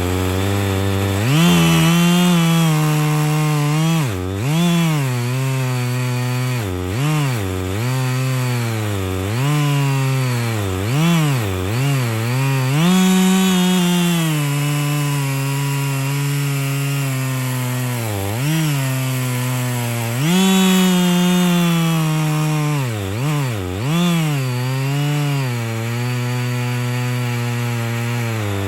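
Husqvarna 55 two-stroke chainsaw revving at full throttle and cutting into hardwood. The engine pitch keeps dipping and recovering as it bogs under load. The chain is dull.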